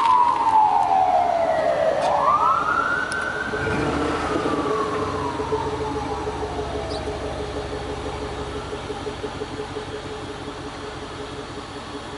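Emergency vehicle siren wailing: one slow falling sweep, a quick rise, then a long falling sweep that fades out about halfway through. Under it is a steady low engine note.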